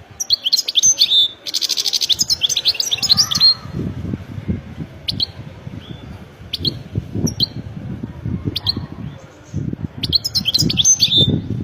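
European goldfinch singing: quick twittering phrases with a buzzy trill, then single sharp call notes about a second apart, and a second twittering phrase near the end.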